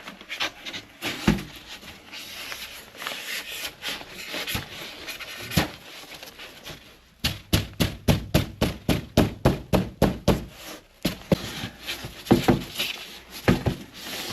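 Knocking and tapping as tongue-and-groove slab insulation panels are worked into place: scattered knocks, then a quick even run of about four knocks a second for several seconds past the middle, then a few more.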